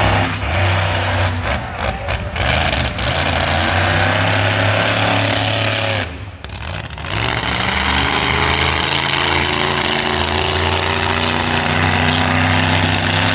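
Monster truck engine running loud and hard, dropping off briefly about six seconds in and then coming back on the throttle.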